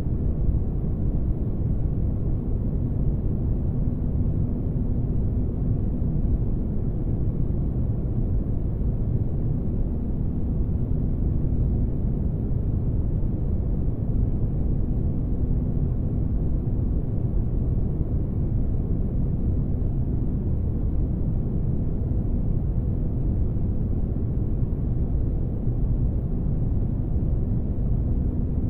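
Spaceship ambience for sleep: a steady deep rumble of engine-like noise with a faint hum that comes and goes.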